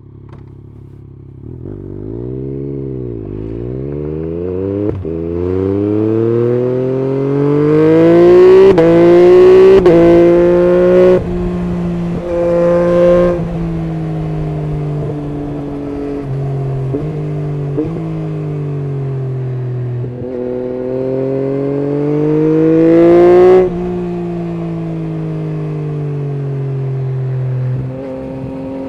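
Yamaha MT-09 SP's three-cylinder engine through an Akrapovic full exhaust system, revving. Twice the pitch climbs steadily for several seconds and then drops off sharply as the throttle closes, and between the climbs the engine runs at a steady pitch.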